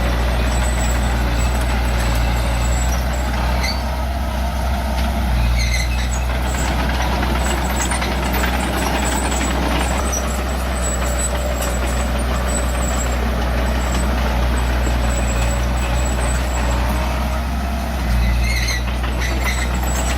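Diesel engine of earthmoving machinery running steadily, its note shifting a few times, with a few short high squeaks.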